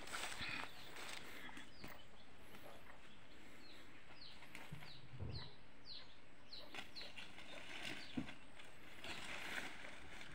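A bird calling a run of short, high whistled chirps that each drop in pitch, about two a second, for several seconds. Rustling in grass and dry leaves near the start and again near the end.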